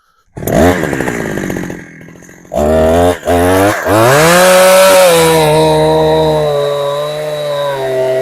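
Two-stroke engine of a Husqvarna 372XP clone chainsaw starting up, revving high with a couple of brief stumbles, then falling back to a steadier, lower speed, during tuning of its carburettor's low-speed mixture screw.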